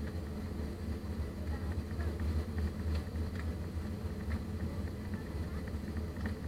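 Steady low rumble inside the cabin of an Airbus A320 jet airliner: the drone of the engines and the airflow around the aircraft, with a few faint ticks.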